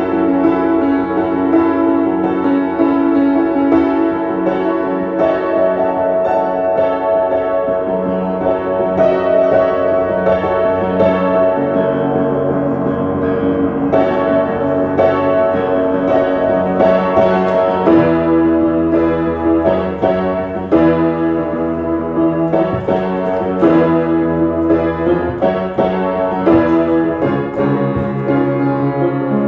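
Piano playing an instrumental passage of a pop-song medley: sustained chords over a bass line, changing to steadily repeated chords about two-thirds of the way through.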